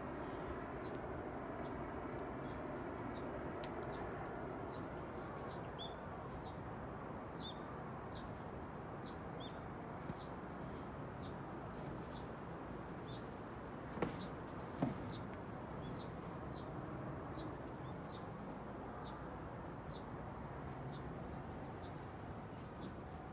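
Small birds chirping, short high calls repeated every second or so, over a steady rush of outdoor background noise. Two sharp knocks close together about two-thirds of the way through.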